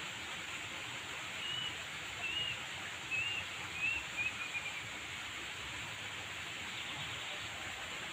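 Steady outdoor hiss with a bird's short high chirps, five in a row over about three seconds from a second and a half in.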